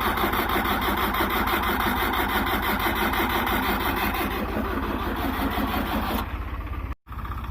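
Tractor diesel engine running, with a steady rapid pulse of firing strokes. About six seconds in the sound turns quieter and duller, and it cuts out briefly about a second later before the engine is heard again.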